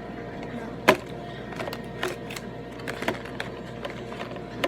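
Small plastic slime containers knocking and clicking as they are set into a plastic storage case, one loud knock about a second in and lighter ones after, over steady faint background music.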